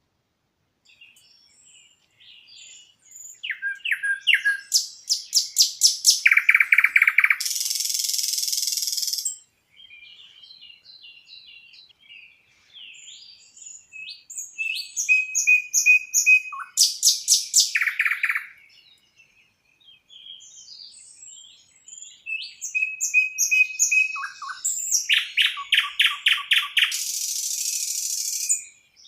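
A songbird singing the same loud song three times, about ten seconds apart. Each song is a run of rapid repeated notes, and the first and last end in a harsh buzzy note lasting a couple of seconds. Fainter chirps from other birds come in between.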